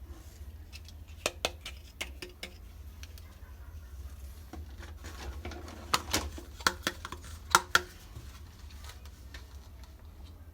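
Small plastic toy kitchen pieces being handled, giving sharp clicks and light taps: a few about a second in, then a quick cluster of louder clicks around six to eight seconds in.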